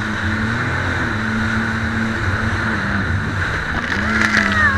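Jet ski engine running steadily over wind and water rush. The engine note sags about three seconds in and picks up again a second later as the throttle is eased and reopened.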